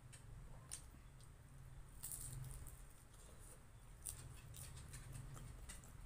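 Faint chewing of fried lumpia, with irregular crisp mouth clicks over a low steady hum.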